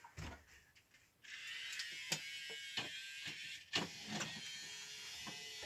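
A battery-powered toy train's small electric motor switches on about a second in and runs with a steady high whine, with a few sharp clicks over it.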